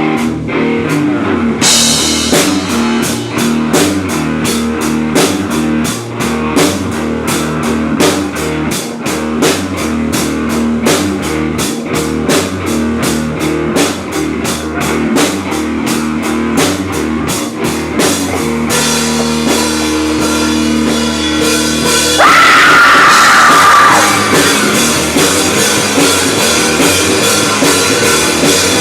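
Rock band playing a cover song live: drum kit keeping a fast, even beat under electric guitar. About three-quarters of the way in, a loud, high guitar line comes in for a couple of seconds.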